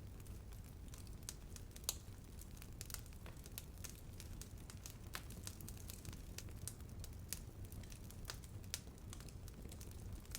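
Wood fire burning, with irregular sharp crackles and pops over a steady low rumble of flame.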